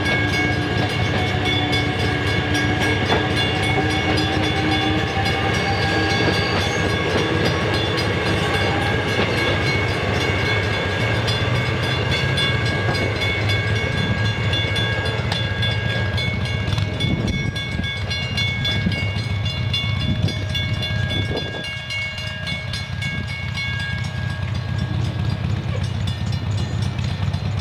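A South Shore Line (NICTD) train running past, with a steady low rumble and several high steady tones. The tones fade out about 24 seconds in.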